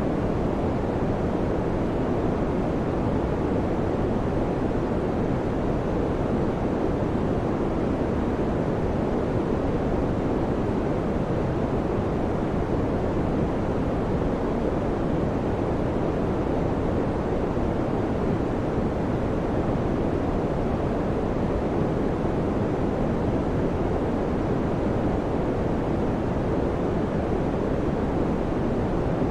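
Electric fan running steadily: a constant, even whoosh of moving air, deepest in the low and middle range, with no hum or clicks.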